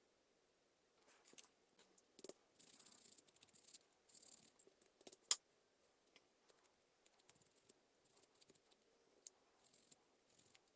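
Faint, scattered clinks and rattles of small metal parts being handled on a workbench, with two sharper clinks a few seconds apart.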